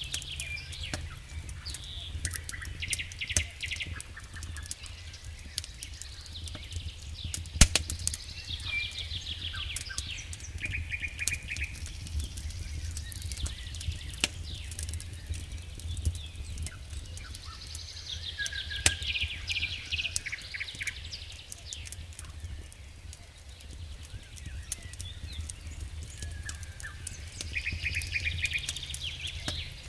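A songbird singing short trilled phrases every few seconds over the pops and crackles of a wood campfire, with one loud pop about seven and a half seconds in.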